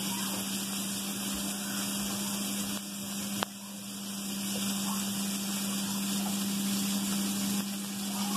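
Bacon and onion sizzling in a frying pan: a steady hiss over a steady low hum, with one sharp click about three and a half seconds in.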